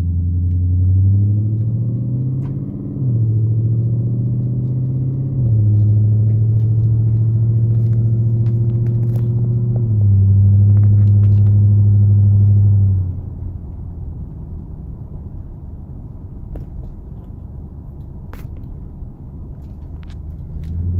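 2004 Infiniti FX45's 4.5-litre V8 through an Invidia aftermarket exhaust, heard from inside the closed cabin while pulling away. The engine pitch rises, then drops back at each upshift, about three and five seconds in. It pulls louder for a few seconds from about ten seconds in, then eases off about thirteen seconds in to a quieter, steady cruise.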